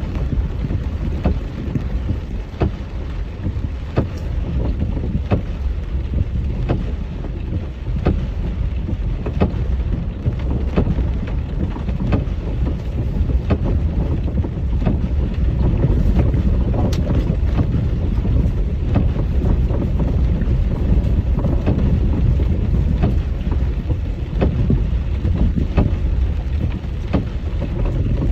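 A vehicle driving slowly off-road in the rain: a steady low rumble with wind buffeting the microphone, broken by frequent sharp taps.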